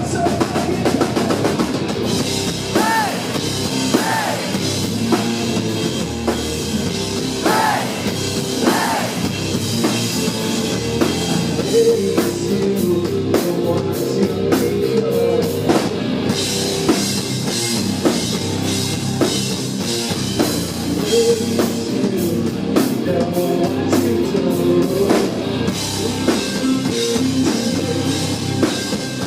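Live hard rock band playing loudly: distorted guitars, bass and a driving drum kit, with a few sung vocal lines in the first several seconds.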